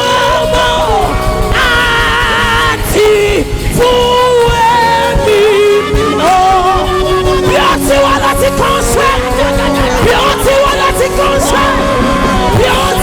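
Live gospel worship music: a voice sings long, gliding lines with vibrato over a band accompaniment.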